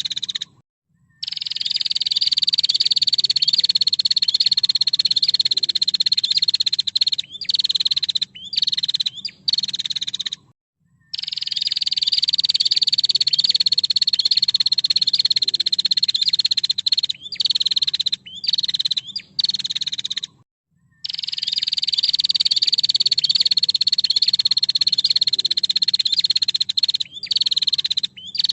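Female prinia (prenjak) calling: three long, rapid buzzing trills of about six seconds each, high-pitched and slowly falling, with short choppy chirps between them, the sequence repeating at even intervals.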